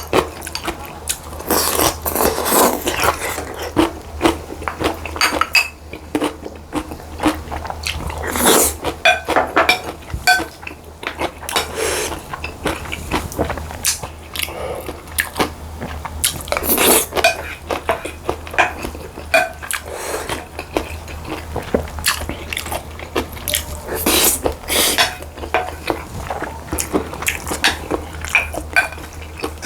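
Close-miked eating: irregular chewing and crunching bites, with a spoon or chopsticks clicking against bowls now and then, over a steady low hum.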